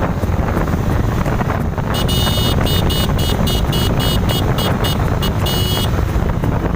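Motorcycle riding noise: wind rushing over the microphone and the drone of the road. From about two seconds in, a shrill electronic horn sounds in a rapid series of short beeps, about four or five a second, stopping near the end.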